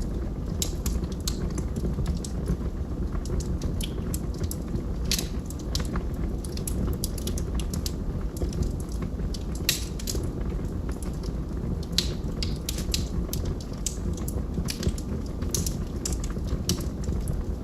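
Log fire burning with a steady low rumble and frequent irregular sharp crackles and pops.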